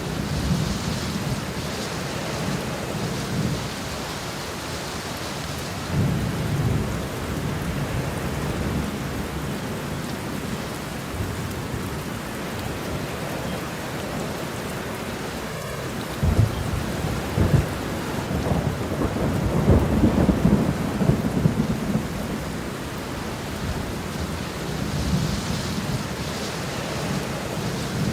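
Steady rain falling, with low rumbles of thunder swelling a few times; the longest and loudest roll comes a little past the middle.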